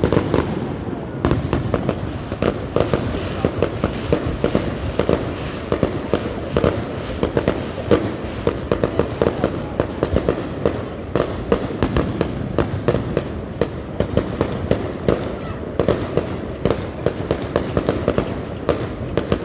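Fireworks going off in a dense, continuous barrage: many sharp bangs and pops a second over a constant rumble of distant explosions.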